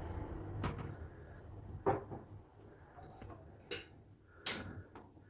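Four light knocks and clacks at uneven intervals, the loudest near the end: a budgie knocking a stick about in its cage as it bites at it and turns it.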